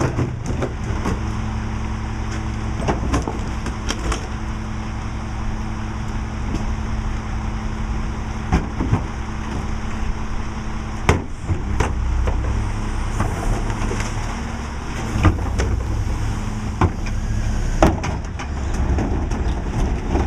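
Diesel engine of a Mack LE rear-load garbage truck running with a steady hum, with scattered sharp clanks and knocks over it.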